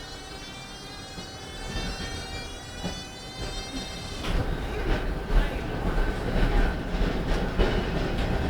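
Tram in motion: its electric drive gives a whine that rises steadily in pitch as it picks up speed. About four seconds in the whine stops, and a louder rumble of the wheels on the rails, with scattered knocks, takes over.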